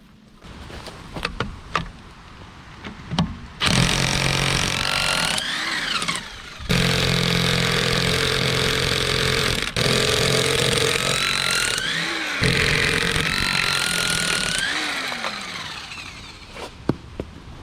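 A motor running in several spells for about eleven seconds, its pitch rising as it starts each time and falling as it stops, with a few light clicks and knocks before and after.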